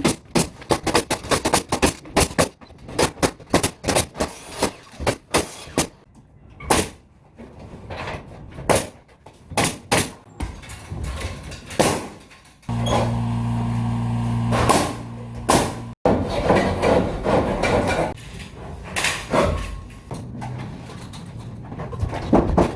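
Pneumatic nail gun firing in quick, irregular shots, fastening ceiling framing and drywall. A steady machine hum comes in for about three seconds around the middle and cuts off abruptly.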